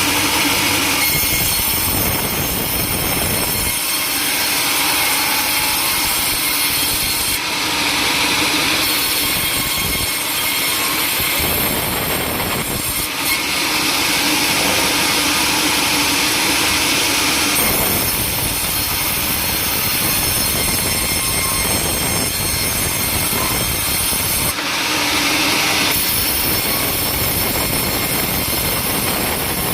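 Sawmill saw cutting through timber, its machinery running loudly and steadily, the sharper, brighter cutting sound coming and going every few seconds.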